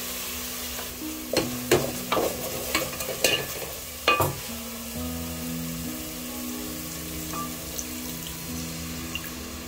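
A wooden spoon stirs and scrapes a thick onion and spice paste frying in an aluminium pot, which sizzles steadily. There are several sharp scrapes and knocks against the pot in the first four seconds, then only the quieter sizzle.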